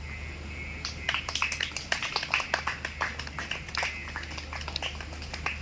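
Irregular sharp clicks and taps, several a second, starting about a second in, over a steady low hum.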